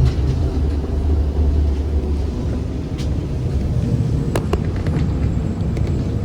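Ride noise inside a ZiU-682G trolleybus in motion: a steady low rumble of the running vehicle, with a few sharp knocks or rattles about four and a half seconds in.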